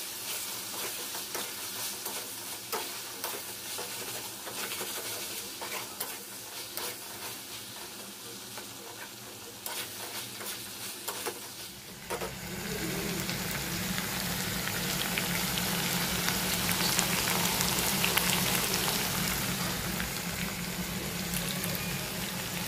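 Chicken frying in a kadai, sizzling, while a metal spatula stirs and scrapes the pan with frequent clicks. About halfway through, the sizzle turns louder and steadier.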